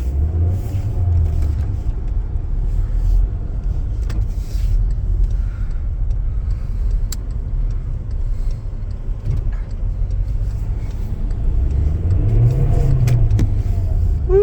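Car driving, heard from inside the cabin: a steady low engine and road rumble, with the engine note rising about twelve seconds in.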